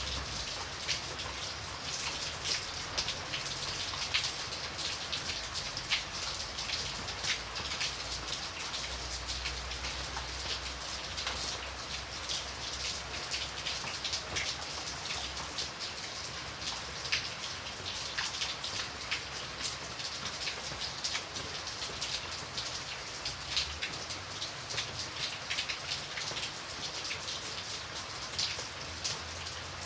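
Steady rain with many individual drops pattering on a surface, a dense sound of close drop clicks, over a faint low rumble.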